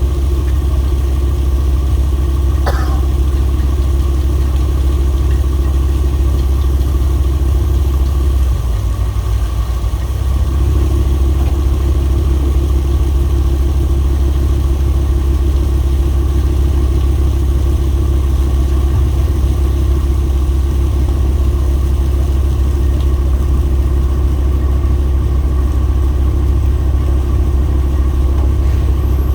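Boat engine running steadily with a deep hum. About nine seconds in it eases off and drops in pitch for a couple of seconds, then picks back up.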